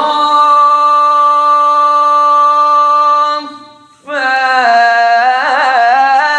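A man's voice reciting the Quran in drawn-out melodic tajweed style. He holds one long steady note for about three seconds, breaks off briefly, then sustains another note that waves up and down in ornamented runs.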